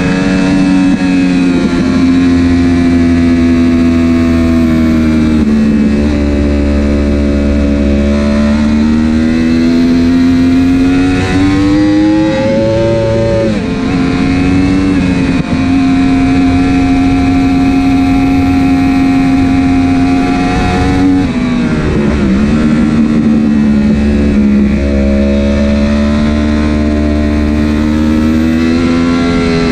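Racing superbike engine under load at track speed. Its pitch stays high, climbs to a peak about halfway through and drops abruptly, then dips again about two-thirds of the way through and climbs back as the throttle opens.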